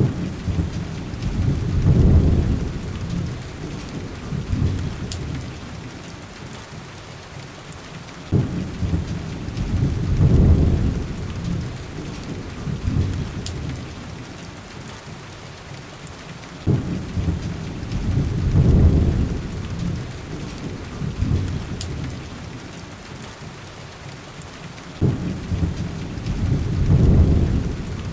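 Heavy rain on a window, a steady hiss, with four deep rolls of thunder about eight seconds apart, each starting suddenly and swelling for a couple of seconds before dying away.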